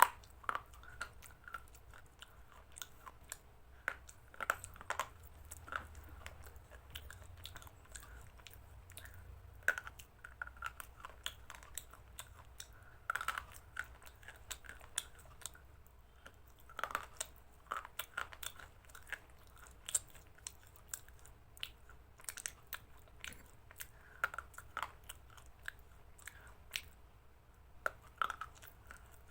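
A person chewing chicken salad: irregular wet crunches and mouth clicks, continuing throughout.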